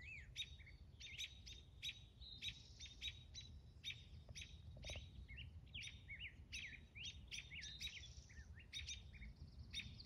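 Small songbirds chirping, with many short, quick calls in rapid succession throughout. These are parent birds calling anxiously while they guard a fledgling on the ground.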